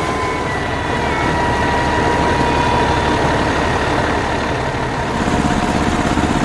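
Heavy vehicle engine idling with a steady, pulsing low rumble, and a thin whine over it that fades out near the end.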